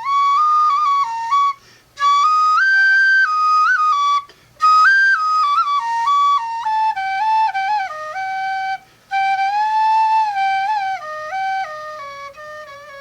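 Solo flute playing a stepwise melody in four phrases, with short breaks for breath between them.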